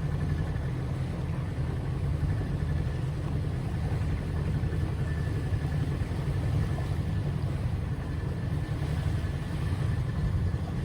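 A motorboat engine running steadily under way: a continuous low rumble with a faint, steady whine above it.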